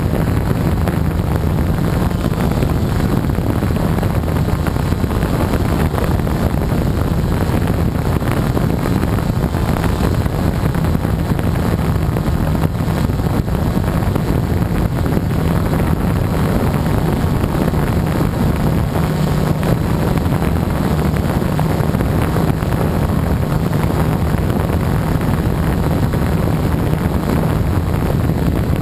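Gaui 330X quadcopter's electric motors and propellers running steadily in flight, with a low buzzing hum and wind rushing over the microphone.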